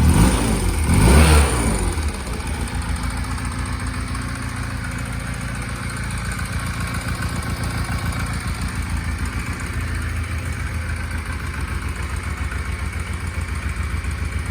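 Honda Rebel 125 motorcycle engine, an air-cooled four-stroke parallel twin, blipped twice in quick succession in the first two seconds, rising and falling in pitch, then idling steadily.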